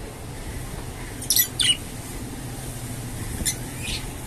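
Red-eyed budgerigars giving short, sharp chirps in two quick pairs, over a steady low hum.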